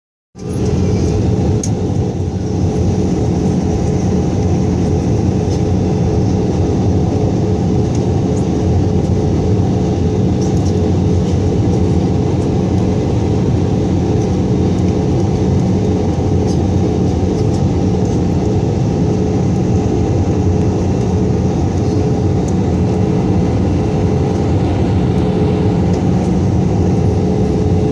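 Airliner cabin noise in cruise flight: a loud, steady rush of engine and airflow with a low drone and a constant hum.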